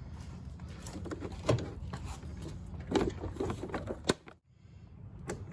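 Handling rattles and clicks as the mower's battery connector is worked and plugged back in, with a louder clatter about three seconds in and a sharp click a second later.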